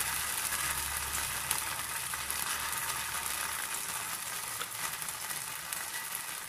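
Rava uttapam batter sizzling in oil on a hot iron tawa, a steady hiss that slowly gets quieter.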